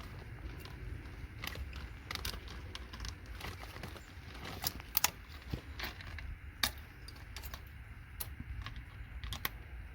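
Irregular small clicks and metallic clinks as MOSFETs are snapped off a computer logic board, with a few sharper snaps about five seconds in and again a second and a half later.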